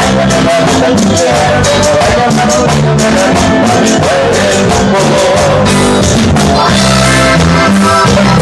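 Band music with a steady beat and a singing voice carrying the melody.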